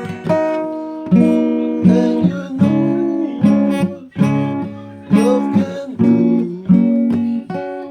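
Acoustic guitar music: chords struck about once a second, each ringing and fading before the next.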